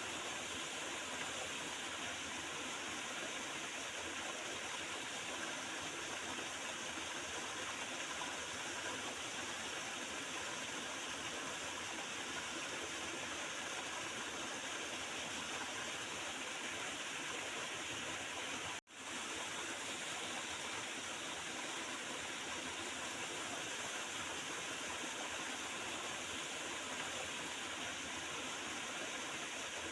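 Small river gurgling and rushing steadily over its bed. About two-thirds of the way through the sound drops out for a split second, then resumes unchanged.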